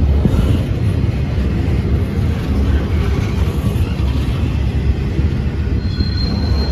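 Train passing at close range with a steady low rumble, and a brief faint high squeal near the end.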